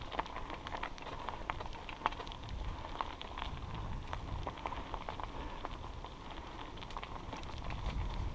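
Bicycle rolling over a rough trail: tyres crunching with irregular crackles and rattles, over a steady low rumble of wind on the microphone.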